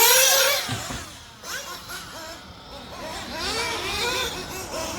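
Small nitro engines on 1/8 RC buggies revving up and down, their pitch rising and falling repeatedly. The loudest high rev is in the first half second, then the engines drop back and keep blipping.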